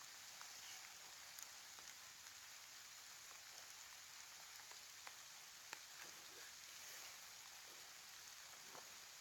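Rain falling: a faint, even hiss with scattered ticks of single drops.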